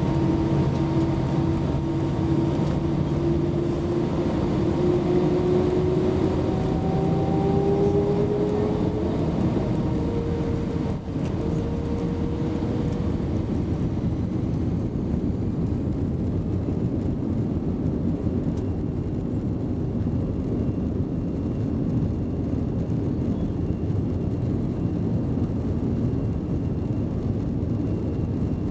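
Airbus A320 jet engines spooling up for takeoff, heard from inside the cabin: a whine rises in pitch over the first several seconds, then the engines settle into a steady roar as the plane accelerates.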